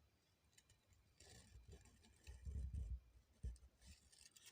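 Near silence: faint room tone with a few soft low thumps, the clearest about two and a half seconds in.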